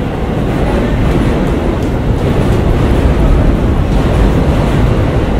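Electric commuter train running beside a station platform: a steady, loud low rumble.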